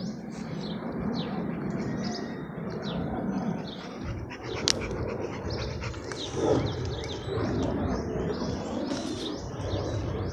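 Small birds chirping continuously, many quick high chirps, over a steady low rumble. A single sharp click comes a little under halfway through.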